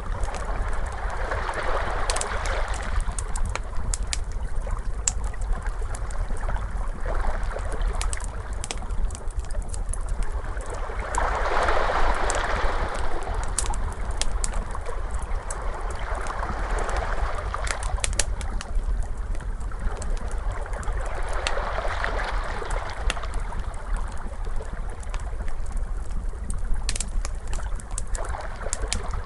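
Ocean waves washing in and drawing back about every five seconds, over a crackling fire with scattered sharp pops and a steady low rumble underneath.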